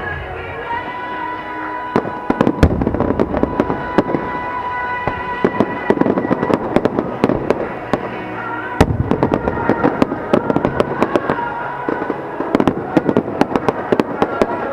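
Aerial fireworks bursting, with two heavy bangs about two and a half and nine seconds in, and dense crackling through the second half. Music with long held notes plays underneath.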